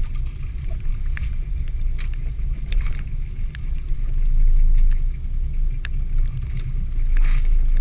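Boat motor running with a steady low rumble, with scattered sharp ticks over it.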